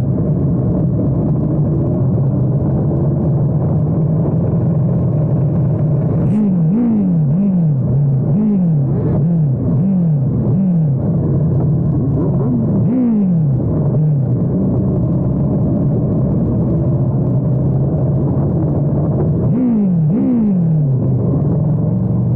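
Superbike engines running, heard muffled, with bursts of quick throttle blips whose pitch jumps up and falls back, several in a row in three clusters. The sound is dull and lacks treble because the camera's wind protection muffled it or the exhaust noise overloaded its microphone.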